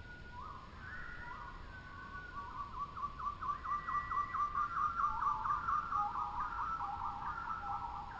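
Birds calling in whistled notes and glides, several calls overlapping. About two seconds in they break into fast repeated notes that grow louder toward the middle and then ease off.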